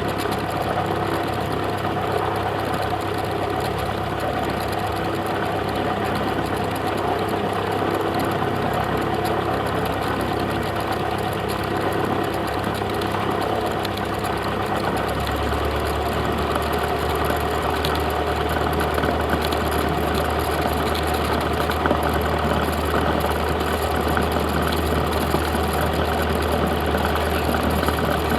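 Cessna 172's piston engine and propeller droning steadily in flight, heard inside the cabin. About halfway through, the deepest note of the drone drops slightly in pitch and holds there.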